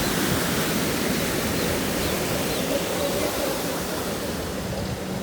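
Heavy rain pouring down, a steady even rush of water.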